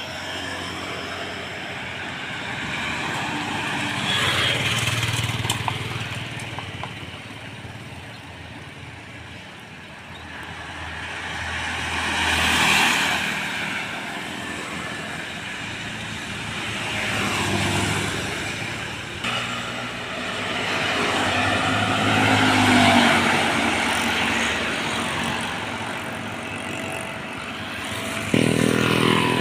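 Road traffic: heavy vehicles such as trucks and buses pass by one after another, each engine and tyre noise swelling and fading, about four passes in all. Near the end a louder engine cuts in suddenly.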